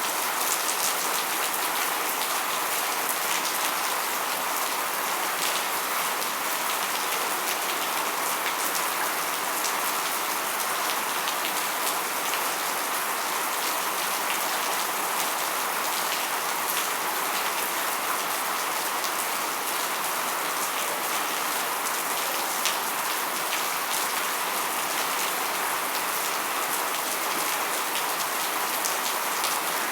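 Steady rainfall, a continuous even hiss with many individual raindrops ticking on a hard surface, holding at one strength throughout.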